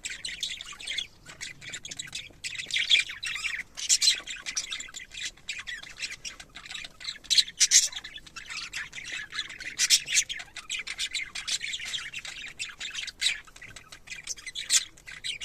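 Budgerigars chattering: a steady high-pitched twittering broken by short, sharp squawks every few seconds.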